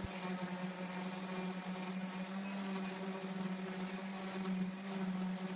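Electric sander running steadily on pine, one unchanging pitch over an even hiss of abrasive on wood.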